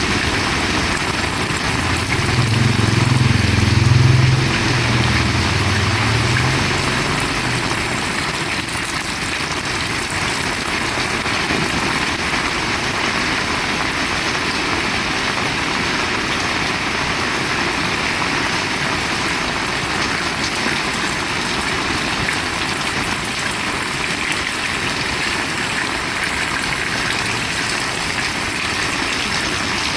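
Heavy rain pouring down in a steady, loud hiss. A low rumble swells and fades within the first several seconds.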